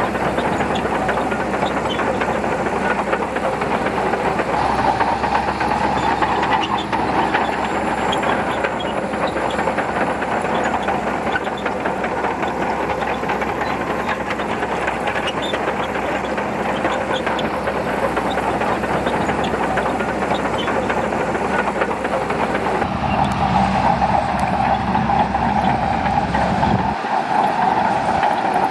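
Shantui bulldozer working: diesel engine running under load with a dense, rapid clatter of steel tracks. The sound shifts about three-quarters of the way through, with a deeper rumble coming up.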